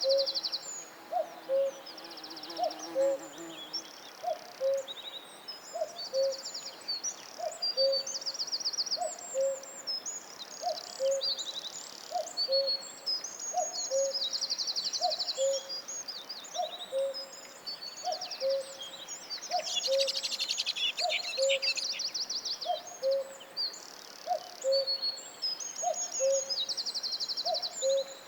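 Forest birdsong: a low two-note hooting call repeated evenly about every second and a half, under a chorus of high trills and chirps from small songbirds that thickens about twenty seconds in.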